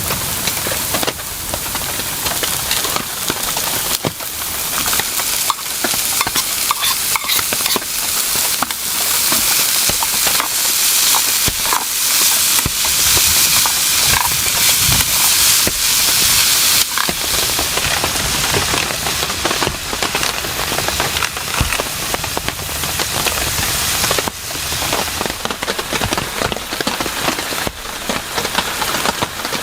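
Heavy rain falling, a dense steady hiss full of sharp pattering drop impacts, heaviest in the middle.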